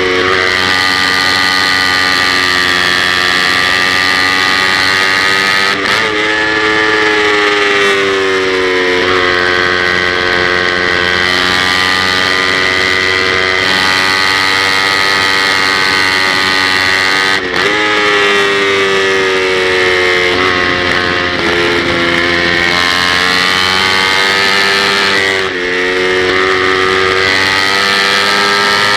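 Kawasaki Ninja 250 parallel-twin race bike engine running hard at high revs, heard from on board. The pitch climbs and falls as the rider works the throttle and gears. There are brief breaks in the note about 6, 17 and 25 seconds in.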